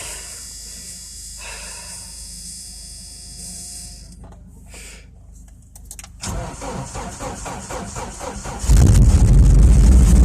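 A car engine cold-started in sub-zero cold (about −18 °C): the starter cranks for a couple of seconds from about six seconds in, then the engine catches near the end and runs loud.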